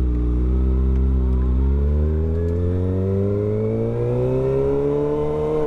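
Kawasaki ZX-6R 636 inline-four engine pulling under way. It holds a steady pitch for about a second and a half, then rises steadily as the bike accelerates in gear.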